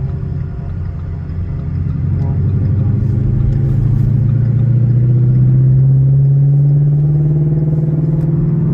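Engine of a 2017 Ford Shelby GT350, a 5.2-litre flat-plane-crank V8, running steadily while driving. Its pitch and loudness rise gradually from about two seconds in as the car gently accelerates.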